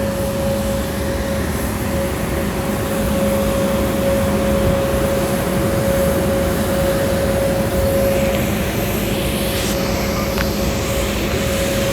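Steady drone of aircraft machinery with a constant whine that holds one pitch, growing slightly louder about three seconds in.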